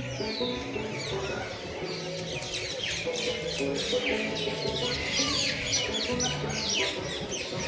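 Many small birds chirping at once, a dense overlapping chatter of short downward-sweeping chirps that grows busier in the second half, over background music.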